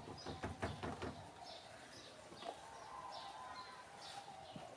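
Small birds chirping in the background: short, high, falling chirps repeated every half second or so. A few light knocks and rustles in the first second.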